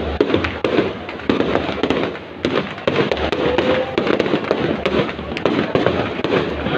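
Fireworks going off in rapid succession: many overlapping cracks and pops, one after another without a break.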